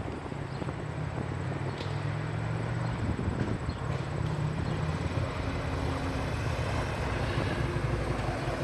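Harley-Davidson Tri Glide's upgraded 110-cubic-inch V-twin, fitted with a Woods cam and S&S dual exhaust, idling steadily.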